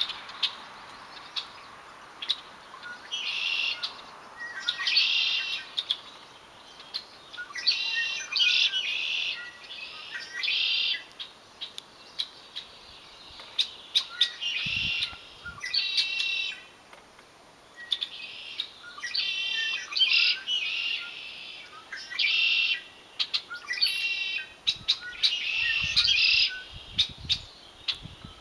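Songbirds singing: repeated trilled song phrases of about a second each, coming every second or two, with short sharp chirps in between.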